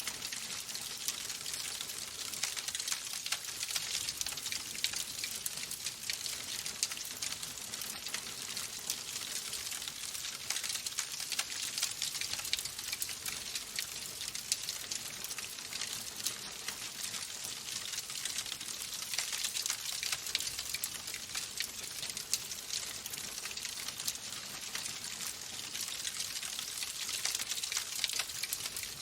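Wood fire in a fireplace crackling steadily: a constant hiss of burning with many small, quick pops and snaps.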